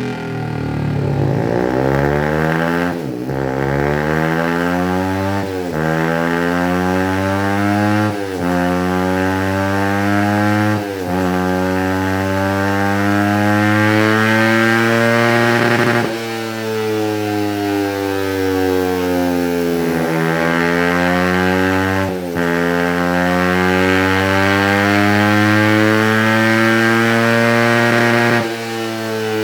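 Suzuki GSX-R150's single-cylinder four-stroke engine, breathing through a Yoshimura R77 full-system exhaust, revving under load on a dyno. The pitch climbs steadily and drops sharply at each gear change, about seven times, with one spell of falling revs in the middle.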